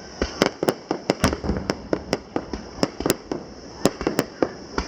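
Fireworks display barrage: a rapid, irregular run of sharp shell bursts, about four bangs a second.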